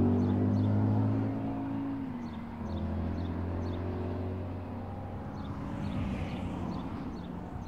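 A car engine running at steady revs, its note stepping down and getting quieter about two seconds in, then holding at a lower level.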